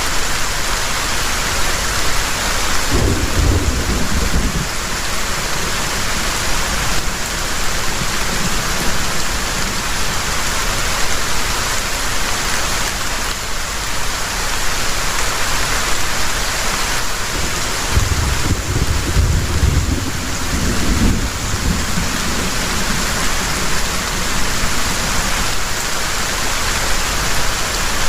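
Heavy rain falling steadily, with thunder rumbling twice: a short roll about three seconds in and a longer one at about eighteen seconds.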